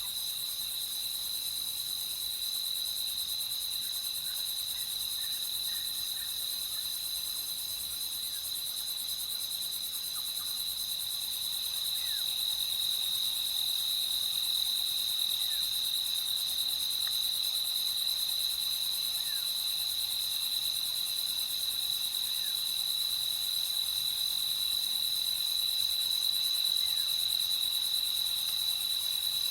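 Crickets chirping in a steady, continuous high trill at night, with a few faint short chirps underneath.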